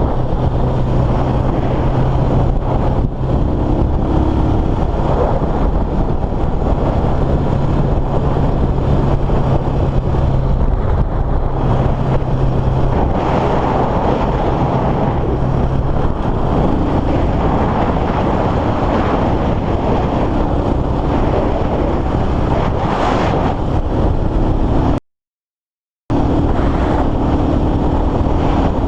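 Motorcycle riding at speed: heavy wind rush on the microphone over the steady drone of a Motorstar Cafe400's 400cc engine, whose pitch steps up about halfway through. The sound cuts out completely for about a second near the end.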